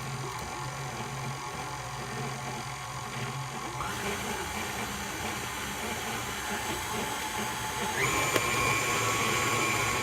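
KitchenAid stand mixer running steadily, beating a cream cheese, powdered sugar and Cool Whip mixture. Its motor whine steps up in pitch about four seconds in, and again near the end.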